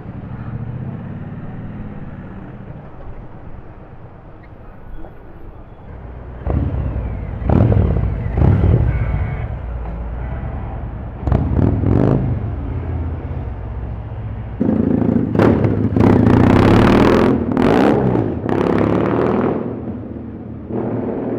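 Motorcycle engines revving and accelerating in street traffic, in several loud surges. The loudest surge starts about two-thirds of the way in and lasts several seconds.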